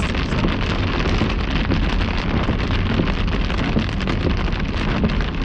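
Heavy rain pelting a moving car, a dense steady patter of drops over the low rumble of the car rolling slowly along a wet road.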